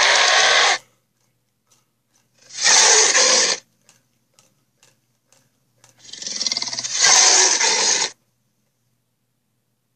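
Allosaurus roar sound effects: a roar that cuts off under a second in, a short roar about two and a half seconds in, and a longer roar that builds from a growl around six seconds and stops sharply at about eight, with silence between them.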